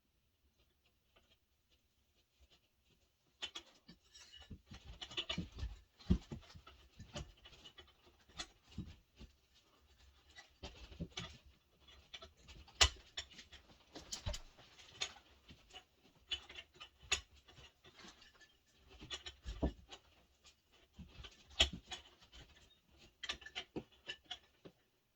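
Irregular knocks, clicks and scraping, as of objects being handled and set down, starting about three seconds in.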